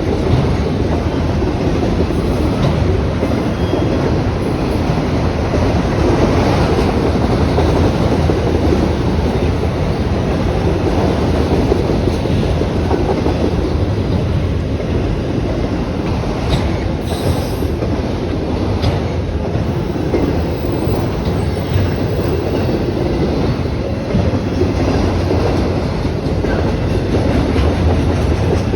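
Train rolling past at close range: a steady rumble and rattle of railcar wheels on the track that holds throughout.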